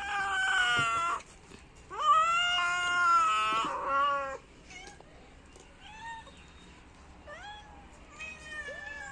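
Domestic cat meowing: two long, loud meows in the first half, then a string of short, fainter meows that rise in pitch.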